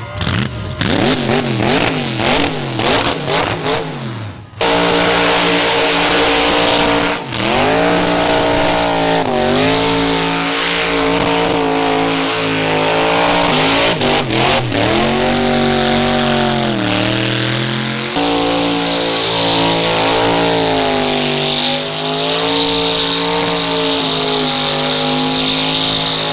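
A car engine revving in quick blips, then from about four and a half seconds in held at high revs with its pitch slowly dipping and rising again, over a steady hiss of tyres spinning in a burnout.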